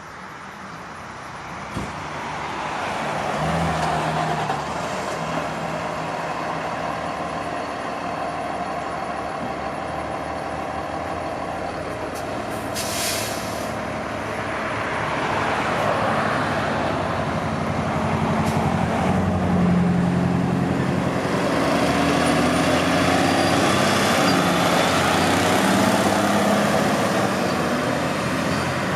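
Diesel engine of a Pierce Enforcer fire engine running close by, growing louder about three seconds in and again past the halfway mark, with a short air-brake hiss a little before the halfway mark.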